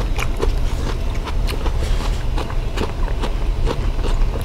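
Close-up eating sounds: chewing and wet mouth smacks, a run of short irregular clicks, over a steady low hum.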